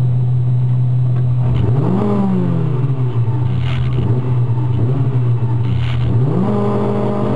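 Turbocharged Honda B16A four-cylinder engine of a Civic EG, heard from inside the cabin, running at a steady speed. It is revved up and let fall back about two seconds in, blipped lightly, then revved up again near the end and held at the higher revs. Two short hisses come through in between.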